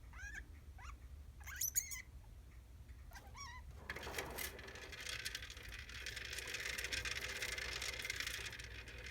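Pet degu giving three short, wavering chirps in the first few seconds. From about four seconds in, a steady rustling noise takes over.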